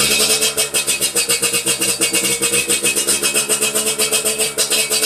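Suzuki Satria two-stroke motorcycle engine held at high revs through a gutted, hollowed-out stock muffler. It gives a loud, steady, raspy exhaust note with fast, even pulses.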